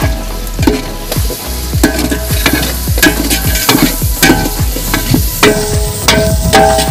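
Onions frying in hot oil in a large aluminium pot, sizzling and stirred with a long metal ladle as sliced tomatoes are tipped in. The sizzle grows louder near the end. Background music with a regular drumbeat plays over it.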